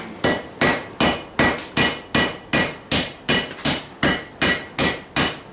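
Steady hand-hammer blows forging a steel blade on a cast-iron Vulcan 90-pound anvil, about two and a half strikes a second, each with a short metallic ring.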